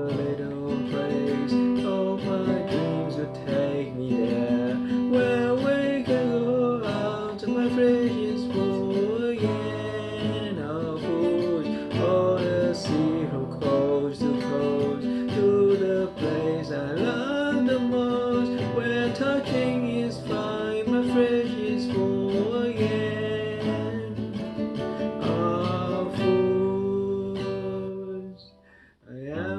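A song with a strummed acoustic guitar accompanying a voice singing, with a brief drop in level near the end.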